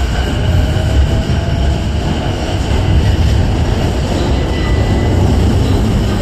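JR East E233 series 0 electric multiple unit running along the platform as it arrives, a loud steady rumble of wheels and running gear. Thin whining tones fade out about a second in.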